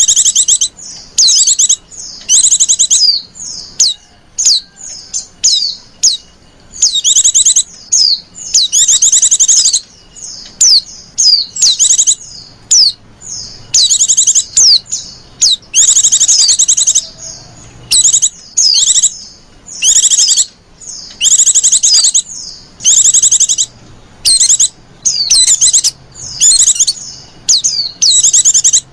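Female white-eye (pleci) calling in high twittering trills and short chirps, bursts coming about every second with some runs near a second long. This is the coaxing female chatter used to lure male white-eyes.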